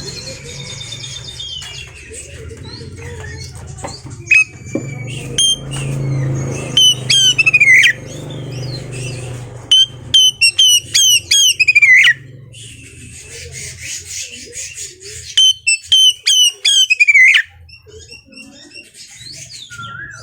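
Oriental magpie-robin singing: loud bursts of rapid, sharp whistled notes, each sliding downward, broken by short pauses and mixed with other chirps and calls. A low steady hum runs underneath, mostly in the first half.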